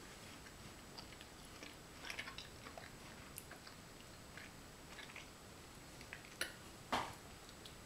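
A mouth chewing frozen blueberries: faint, irregular crunching and small clicks, with one louder short sound near the end.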